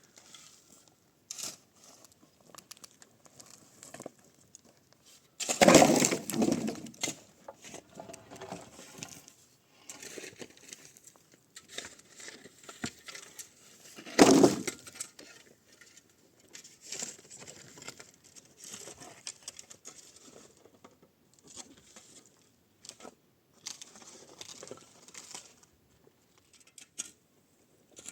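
Intermittent rustling, crinkling and scraping handling noises with scattered light clicks, and two louder noisy bursts, the first about six seconds in and lasting about a second and a half, the second about fourteen seconds in and shorter.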